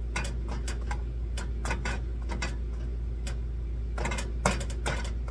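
Irregular light ticks and taps in a pan as a tortilla cooks and its bubbles are pressed down, over a steady low hum. One sharper tap comes about four and a half seconds in.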